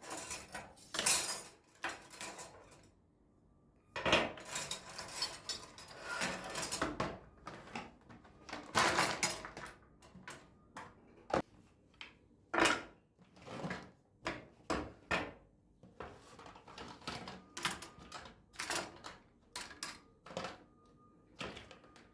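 Dishes and cutlery being handled, with irregular clinks, knocks and short rattling clatters.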